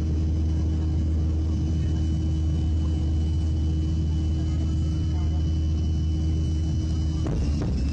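Steady drone of an airliner's cabin in the climb, with a low hum and a thin high tone. Near the end the tones drop away and sharp bangs begin, a banging that the captain puts down to static electricity discharging in cloud, though the uploader calls it compressor stalls.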